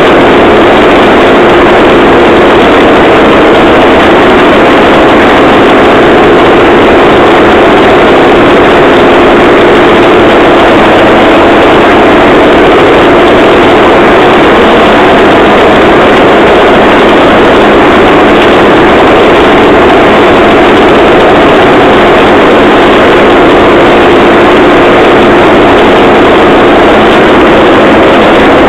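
Engine-driven rail trolley running steadily along the track, a loud, unchanging engine and running noise with no let-up.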